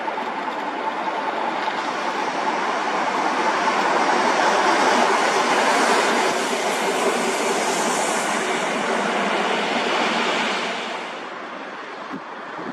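Passenger train hauled by an EP07 electric locomotive rolling past: a steady rushing rail noise that swells, holds loud for several seconds, then dies away near the end as the train moves off.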